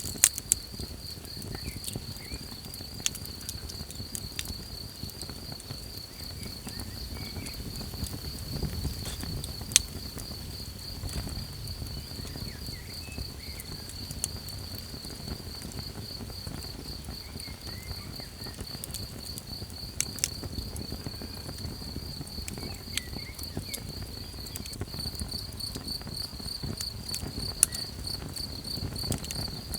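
Crickets chirping in a steady, fast-pulsing trill over a campfire crackling, with a handful of sharp pops from the burning wood and a low rumble underneath.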